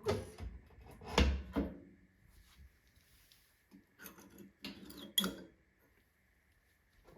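Clattering knocks and metallic clanks from the wood fireplace being handled while the fire is lit. They come in two bursts, the loudest about a second in and a second burst about four to five seconds in. A faint steady high whine runs underneath.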